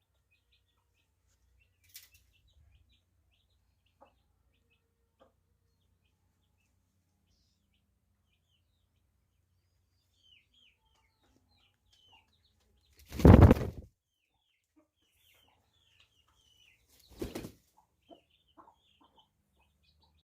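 Aseel rooster flapping its wings in a short loud burst past the middle, and again more weakly about four seconds later, over faint chirping of small birds.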